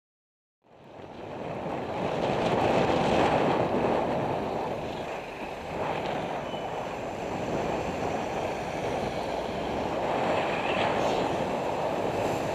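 Wind rushing over a cyclist's camera microphone with road traffic noise underneath, starting abruptly a little under a second in after silence.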